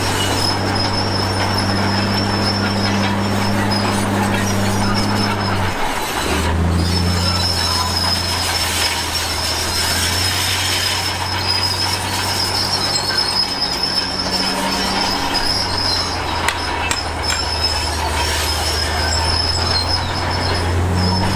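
Crawler bulldozer's diesel engine running steadily, with a high, continuous squeal from its steel tracks and rollers as it moves. The engine note drops out briefly about six seconds in, then picks up again a little lower.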